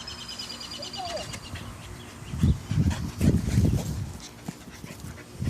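Seven-month-old pit bull puppy breathing heavily close to the microphone, loudest in a run of heavy, irregular breaths about halfway through.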